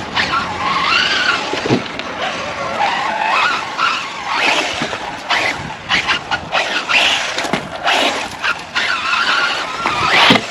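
Serpent SRX8 1/8-scale electric RC buggy running laps on dirt: its motor whine rises and falls over and over with the throttle, over the hiss of tyres scrabbling on the dirt, with scattered sharp knocks.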